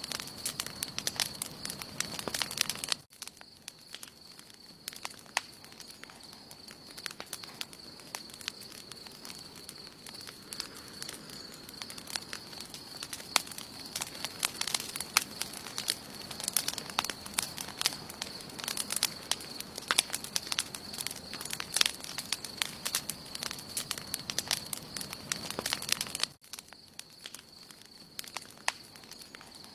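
Wood campfire burning, crackling with frequent sharp pops and snaps over a soft hiss, with a steady thin high tone throughout. The overall level drops abruptly about three seconds in and again near the end.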